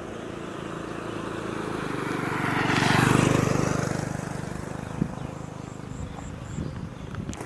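A motor vehicle passing by, growing louder to a peak about three seconds in and then fading away, with a sharp click about five seconds in.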